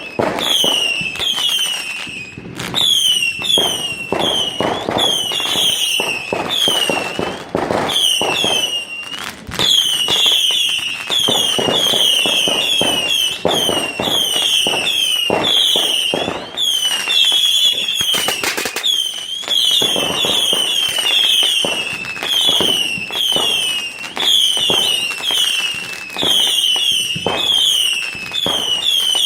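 Fireworks display going off continuously: rapid bangs and crackles, with a high falling whistle repeated two or three times a second.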